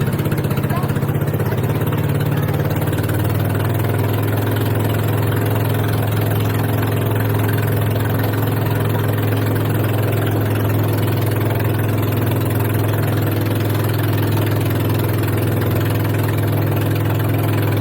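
Boat engine running steadily at an even speed, a constant low drone with no change in pitch.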